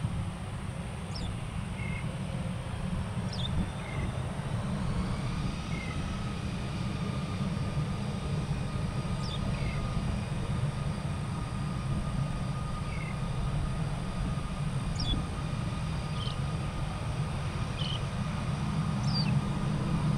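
Birds calling, short downward-sliding notes every second or two, over a steady low rumble. A faint steady whine runs through most of it.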